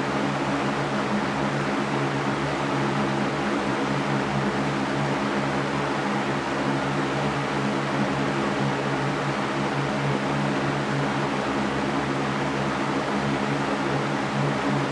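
Electric fan running steadily: an even rush of air with a low motor hum under it.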